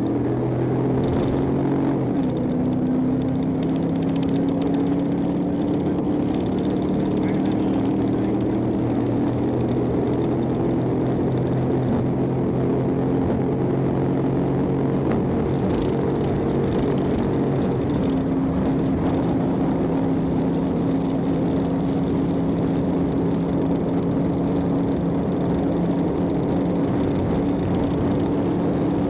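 Patrol car's engine running at a steady pace with road and tyre noise, its pitch drifting slowly as the car eases through traffic.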